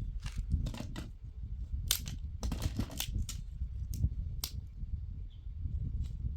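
Irregular sharp knocks and clicks, several close together a couple of seconds in, over a steady low rumble.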